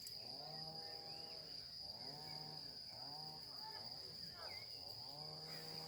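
Crickets trilling: an unbroken high, steady buzz.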